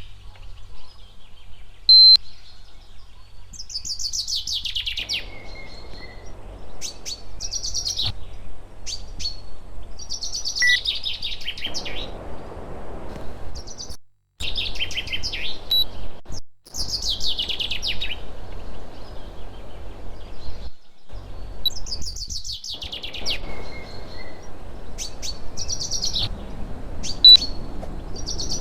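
A songbird singing, repeating a descending trilled phrase every few seconds with short high notes after each. Two brief, sharp high pips are the loudest sounds, one about two seconds in and one near the end. A steady low hum and hiss runs underneath.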